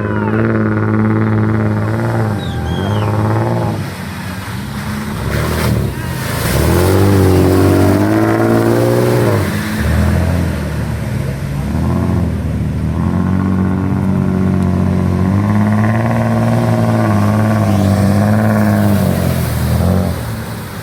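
Off-road 4x4 engine revving hard under load, its pitch rising and falling again and again as the throttle is worked.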